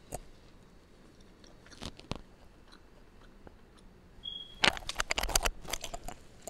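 Close-up mukbang chewing of a bite of salami: wet mouth clicks and smacks coming thick and fast from about four and a half seconds in, after a few scattered clicks.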